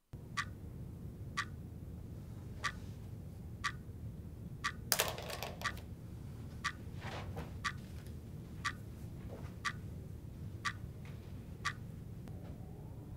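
Quartz wall clock ticking about once a second, over a steady low room hum. A brief rustle about five seconds in.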